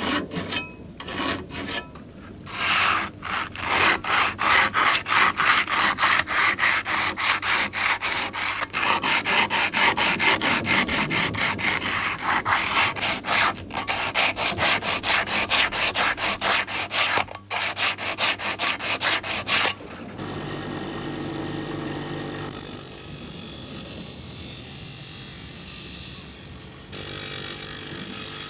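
Rhythmic hand strokes of an abrasive, sandpaper or a file, rubbing back and forth on a hard surface, quick and even. About twenty seconds in the strokes stop and a steady mechanical whir with a low hum takes over, getting brighter and hissier a couple of seconds later.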